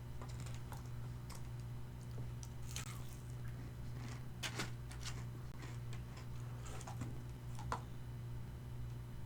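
Eating and chewing Korean fried chicken, heard as scattered sharp mouth clicks, about a dozen in all, over a steady low hum.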